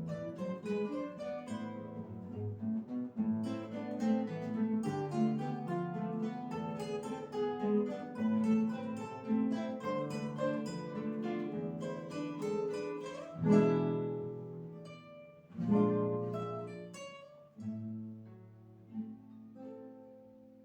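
Guitar ensemble playing a plucked melody over bass notes. About two-thirds of the way through come two loud full chords, then a few last notes that fade away as the piece closes.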